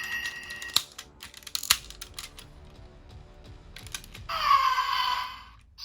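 Plastic toy parts clicking and snapping as the Power Rangers RPM Megazord (Go-onger DX Engine-O) toy is handled and fitted together, then a pitched electronic sound for about a second, starting about four seconds in.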